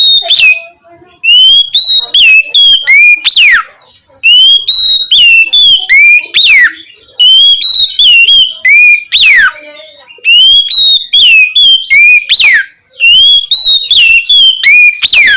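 Oriental magpie-robin singing loud, clear whistled phrases. Each phrase is a run of short whistles ending in one long falling whistle, and the phrases repeat about every three seconds.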